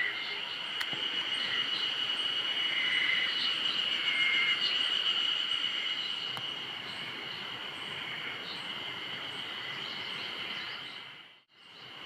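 Insects trilling steadily in one high, unbroken tone, with short, repeated higher calls over it. Near the end the sound drops out for a moment and then comes back.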